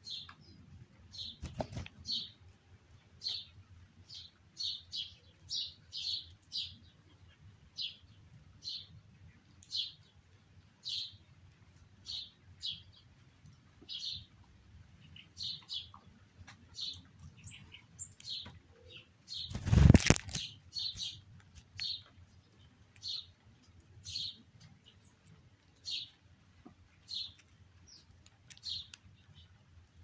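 A small bird chirping over and over, short high chirps about once a second. About two-thirds of the way in, a brief loud rush of noise stands out above the chirps.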